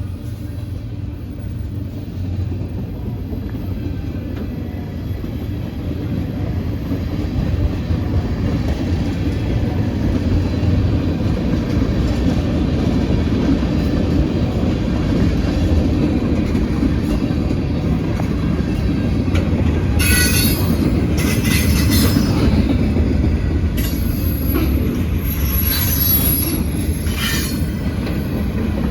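Freight train rolling past with a heavy, steady rumble of wheels on rail that grows louder in the first third. In the last third, wheel flanges squeal in repeated high screeches.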